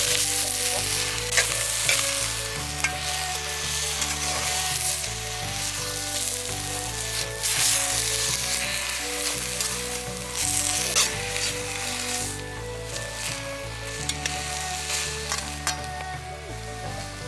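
Food frying and sizzling in a pan, with crackles and stirring, under light background music.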